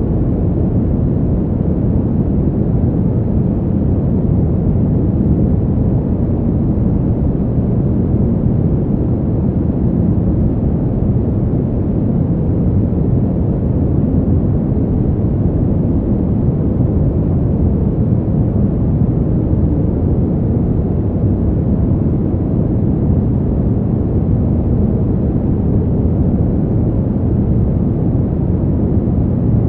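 Steady winter wind: an even, deep rushing rumble with no high hiss and no gusts or separate sounds.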